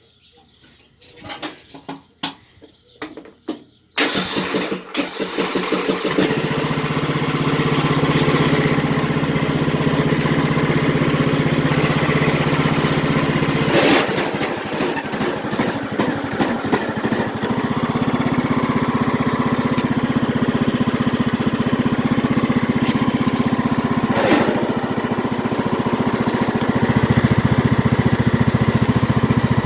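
John Deere lawn tractor's 540cc, 18 hp engine: a few short clicks and knocks, then the engine starts about four seconds in and runs steadily, its note deepening a little near the end.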